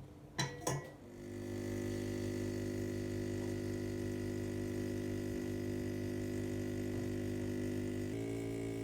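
Two clicks, then a steady electric hum from a WMF espresso machine's pump, which starts about a second in and holds level until music begins near the end.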